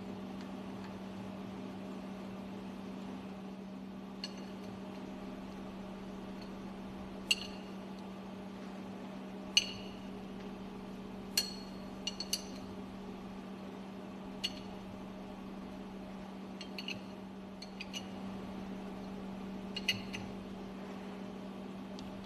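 Steel hand tools clinking against the fuel pump's metal parts, about a dozen short ringing clinks, some in quick pairs, while the fuel pump top cover is loosened with its dismantling screws. Under them, a steady machinery hum.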